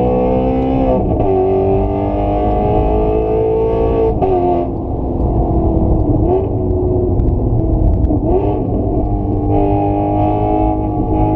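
Engine accelerating hard at full throttle, its pitch climbing and then dropping at several gear changes.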